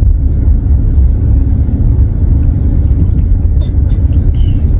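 Steady low rumble of a car, heard from inside the cabin, with a few faint clicks in the second half.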